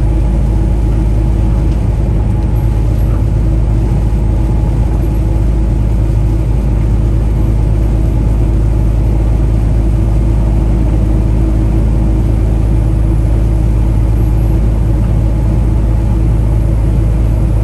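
Semi-truck's diesel engine running with a steady low rumble and a few constant hum tones, heard from inside the cab.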